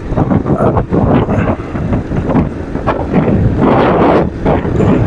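Wind buffeting the microphone on a moving motorcycle, with road and traffic noise underneath; loud and uneven, surging throughout.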